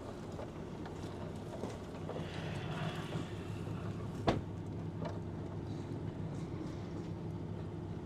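Vehicle engine idling steadily with a low hum, and a single sharp click or knock about four seconds in.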